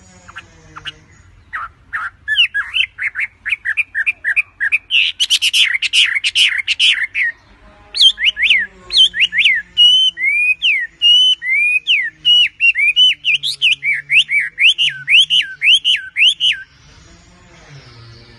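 A wambi (racket-tailed treepie) calling in full voice: a long run of loud, quick, sweeping notes, several a second, with a short break about halfway, stopping shortly before the end.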